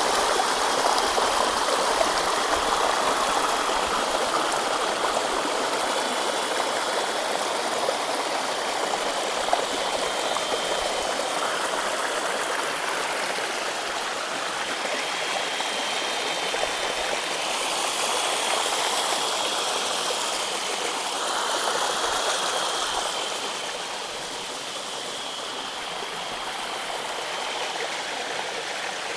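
Stream water rushing and splashing over rocks in a steady, even rush, a little softer in the last few seconds. A faint, thin, high tone runs through much of it.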